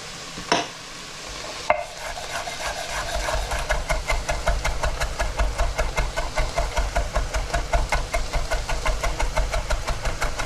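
Garlic being chopped with a knife on a cutting board: two single knocks, then from about two seconds in rapid, even strokes about five a second. A faint sizzle of onions and paprika frying in the pot runs underneath.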